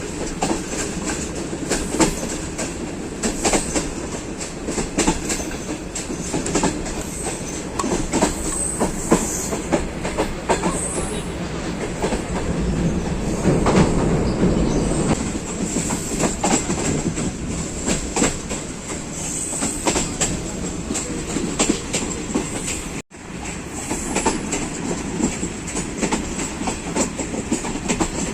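Passenger train running on the track with a steady rumble and the rapid clicking of its wheels over rail joints, swelling louder about halfway through. The sound drops out for an instant near the end.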